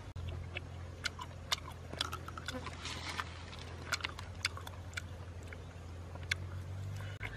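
Close-up eating sounds of a person chewing and biting meat off a small cooked rabbit bone. Irregular sharp clicks and smacks come from mouth and bone, over a steady low hum.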